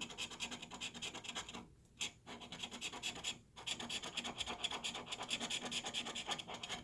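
Coating being scratched off a lottery scratch-off ticket in quick back-and-forth strokes, pausing briefly twice.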